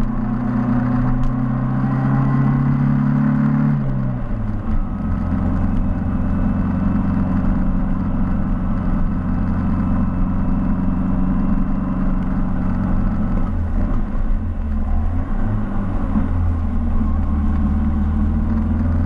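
A Mini's engine running as the car drives along, picked up by a camera on the bonnet. The engine note drops in pitch about four seconds in, dips and wavers again about three-quarters of the way through, then steadies.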